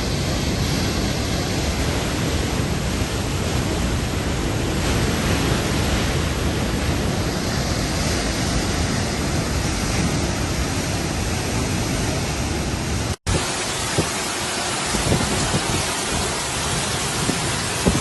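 A loud, steady rush of water. It breaks off for an instant about 13 seconds in, then comes back with less low rumble and scattered sharp taps.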